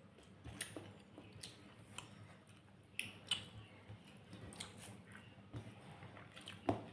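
A person chewing a meal of rice and beef curry, with irregular short clicks of the mouth and food; the loudest comes near the end.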